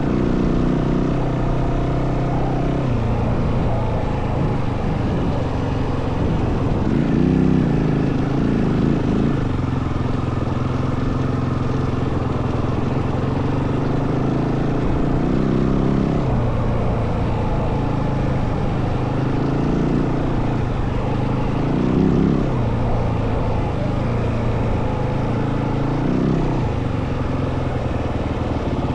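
Yamaha WR450F dirt bike's single-cylinder four-stroke engine running under way, its revs rising and falling every few seconds with the throttle and gear changes, with wind buffeting the microphone.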